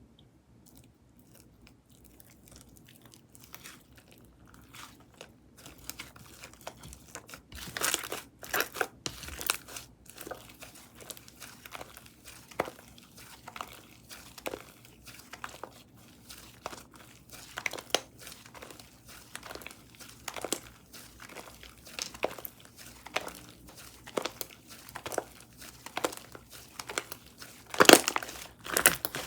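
Strawberry cookie whipped-cream slime being pressed and stretched by hand, giving off irregular crinkly, crunchy pops and crackles. It starts faint and grows louder after several seconds, with the loudest pop near the end.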